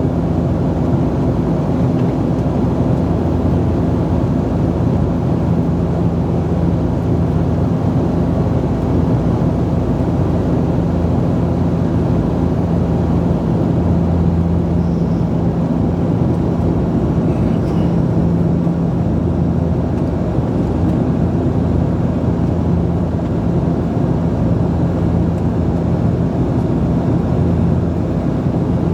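Cabin noise inside a Bombardier Dash 8-Q400: its Pratt & Whitney Canada PW150A turboprops and propellers running steadily, a low propeller hum over a constant rushing noise.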